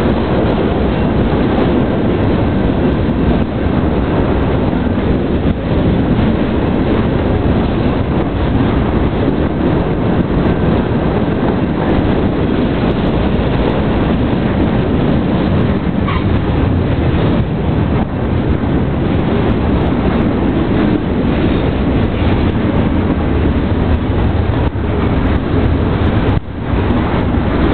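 Freight cars of a Union Pacific manifest train rolling past at close range: a steady, loud rumble and rattle of steel wheels on the rails, with occasional sharper clicks.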